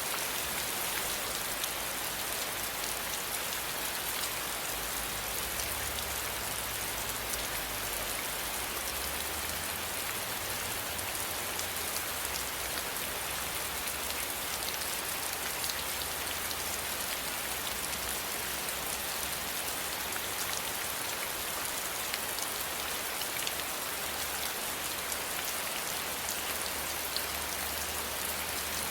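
Steady rain falling and pattering on a surface, a dense, even hiss full of fine drop ticks.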